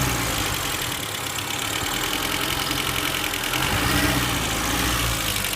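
Vehicle engine idling, its revs briefly rising and falling about four seconds in, with a fast ticking rattle over it. The owner calls it a strange noise and puts it down to the fork (fourchette).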